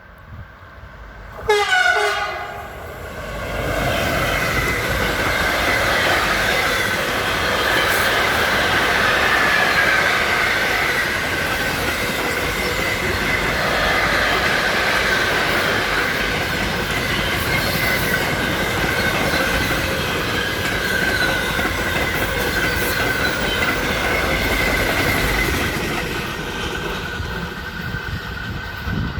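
LTE class 183 electric locomotive sounds its horn as it passes, the blast dropping sharply in pitch. Its freight train's wagons then roll by for about 25 seconds with a steady rumble, wheel clatter and a high ringing squeal from the wheels, fading slightly near the end.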